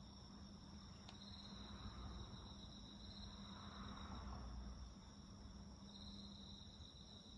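Insects chirping faintly in steady, high, continuous trills that pulse in and out, over a low steady hum. There is a single small click about a second in, and a faint swell of distant noise around the middle.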